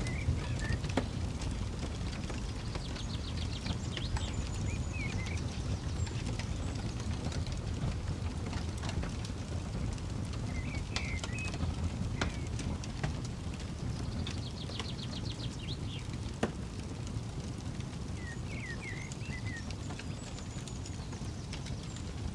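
Wood campfire crackling, with scattered sharp pops over a steady low rumble. A bird sings in the background, a short phrase with a rapid trill heard twice.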